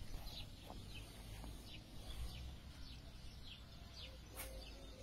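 Small birds chirping faintly, short quick downward notes repeating every half second or so, over a low wind rumble on the microphone. A single sharp click about four and a half seconds in.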